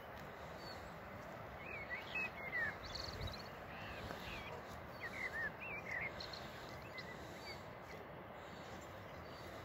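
Small birds chirping in short, quick rising and falling notes, most of them between about two and six seconds in, over a steady outdoor hiss.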